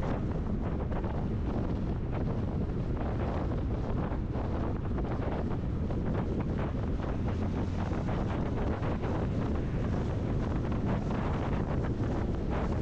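Steady wind and road noise from a vehicle driving along, a constant low rumble with wind buffeting the microphone.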